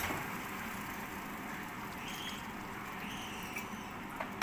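A cup of water poured into a cooking pot, a steady splashing hiss, with a light clink near the end.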